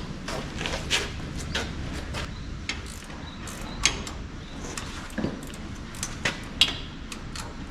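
Scattered sharp metal clicks and clinks, a dozen or so, over a steady low rumble: hands and tools working on a tractor's throttle linkage to fit a new throttle spring in place of a broken one.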